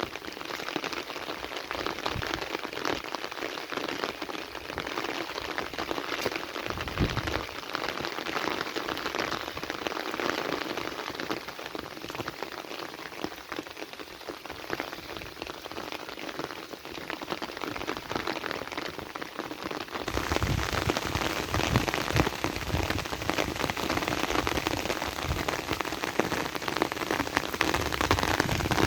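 Heavy rain pattering densely on surfaces. About two-thirds of the way through it abruptly turns louder and fuller.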